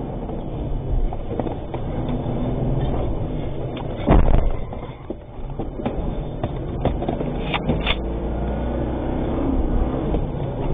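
A motor vehicle's engine running steadily with a low rumble. There is a loud thump about four seconds in and a few sharp clicks a little before the end.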